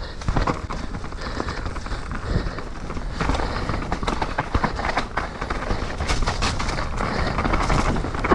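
Mountain bike rolling over a wet, rough trail: steady tyre noise on the ground with frequent small knocks and rattles from the bike.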